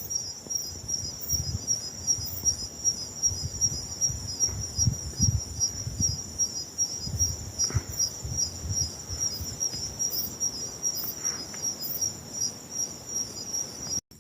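Crickets chirping in a steady, high, rapidly pulsing chorus, with irregular low rumbles underneath.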